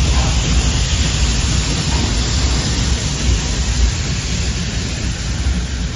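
Departing steam-hauled train rolling past, a steady heavy rumble and rushing noise that eases slightly toward the end.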